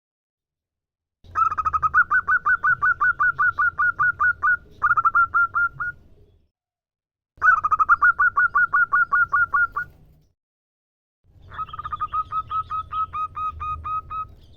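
Female zebra dove (perkutut) calling to males: three bouts of rapid, evenly repeated short coo notes, about six a second, each bout lasting a few seconds.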